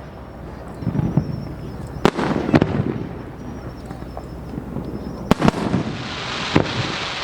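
Aerial fireworks bursting: several sharp bangs with low rumbling echoes, then a dense crackling hiss of glittering shells building near the end.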